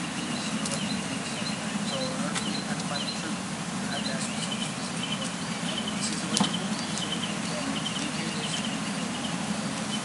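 Birds chirping in short, repeated high calls over a steady low background hum, with one sharp click about six seconds in.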